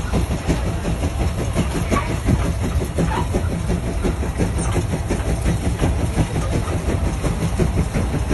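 Heavy vehicle engine running steadily, a low rumble with a constant fast rattle over it.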